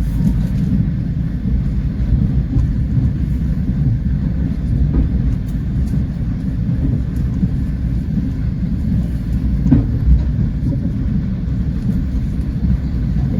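Passenger train running at speed: a steady low rumble of wheels on the rails, with a few faint knocks, the clearest about ten seconds in.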